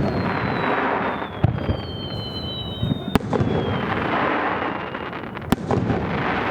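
Aerial fireworks: three sharp bangs over a continuous crackling, sizzling hiss of bursting shells, with thin whistling tones sliding slowly down in pitch.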